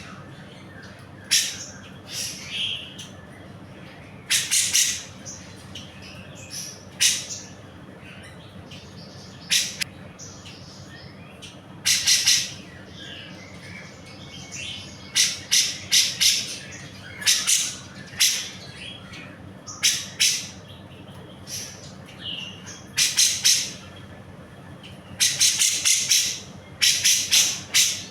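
Grey-cheeked bulbul (cucak jenggot) singing in short, high, rapid chattering phrases, often several in quick succession, with pauses of a few seconds between groups. A faint steady low hum runs underneath.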